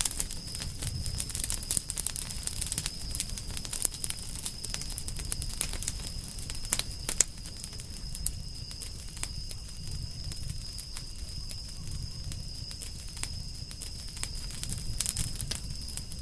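Campfire of burning firewood crackling with many irregular sharp pops, the loudest about seven seconds in, over a low rumble. A faint steady high tone runs underneath.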